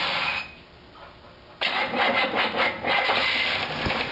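1965 Buick Skylark's 300 V8 fires up about a second and a half in, after a short quiet gap, and runs with an uneven pulsing beat. The engine has an upper-end knock, which the owner suspects is a stuck lifter.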